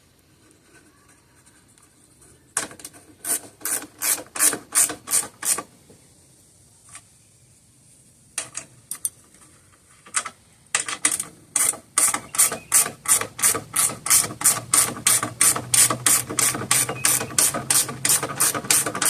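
Ratchet wrench clicking in steady strokes as a bolt is turned, about three clicks a second: a short run, a pause with a few stray clicks, then a longer steady run from about halfway through.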